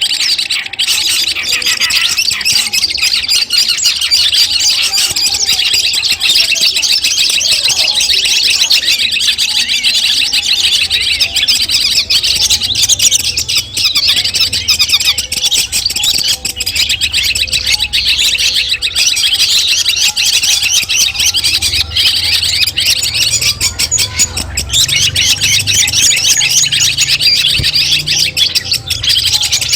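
Long-tailed shrike (cendet) singing: a rapid, unbroken stream of chattering and harsh squawking notes, used as a master recording for tutoring songbirds.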